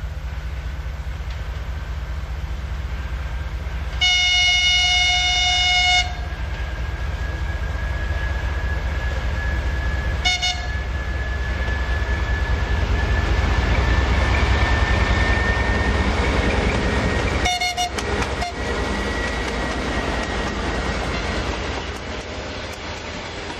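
Diesel locomotive hauling a passenger train sounds its horn in one two-second blast, then two short toots, over the steady low rumble of the train passing close by. The rumble is loudest mid-way and fades near the end.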